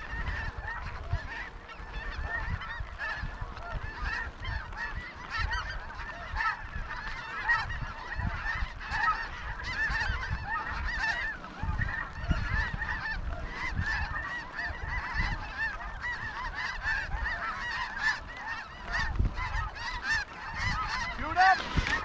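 A large flock of snow geese calling in a dense, unbroken chorus of overlapping high honks, with a low rumble on the microphone underneath.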